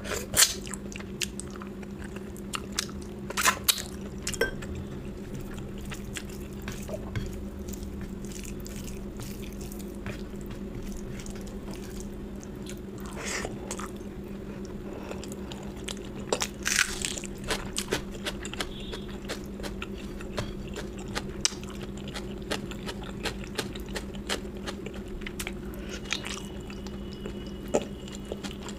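Close-miked eating: chewing and biting food, with scattered sharp clicks and a few louder crunches, over a steady low hum.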